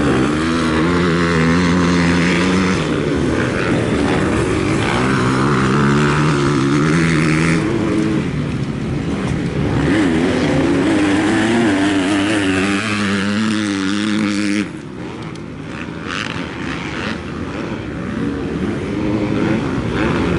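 Motocross bikes running on the track, engines revving up and dropping back again and again as they accelerate and shift. About three-quarters of the way through the sound drops suddenly and the engines carry on more faintly.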